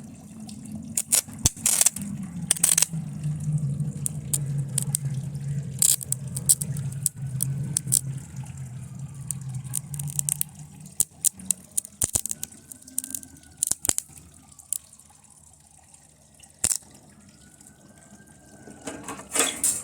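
A TV circuit board shorted across a lead-acid battery, arcing and burning with sharp crackles and pops. A low steady hum runs under it and stops about halfway through; after that the pops come singly and more sparsely.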